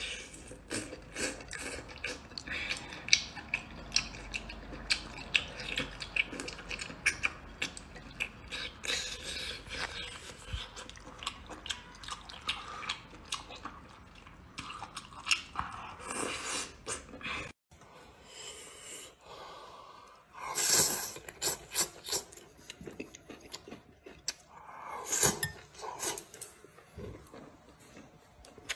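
Close-miked eating sounds: rapid wet mouth clicks and smacks of someone chewing cooked whole baby octopus. After a short break about two-thirds in, the chewing comes in separate bursts.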